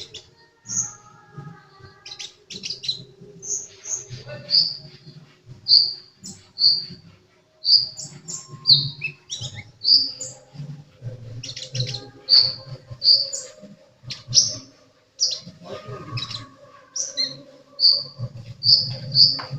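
A sunbird, the Indonesian 'kolibri', singing energetically: a continuous run of short, high, sharp chirps and whistling notes, about two a second.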